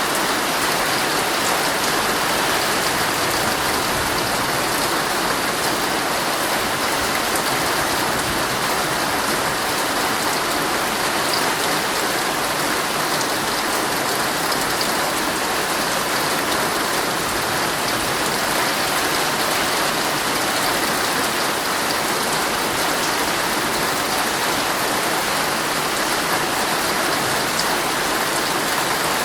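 Heavy rain drumming steadily on a tent's fabric, a dense even patter of drops with no let-up.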